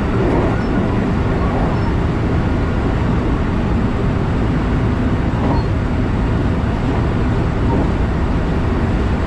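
Steady rumble and rolling noise of a JR West electric commuter train running along the line, heard from inside the passenger car.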